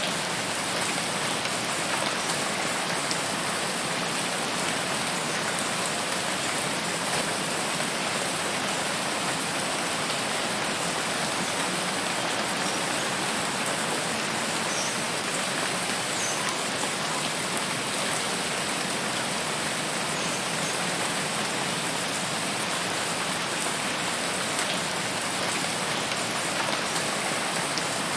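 Steady rainfall, a dense even hiss of drops on a surface with a fine crackle of individual drops.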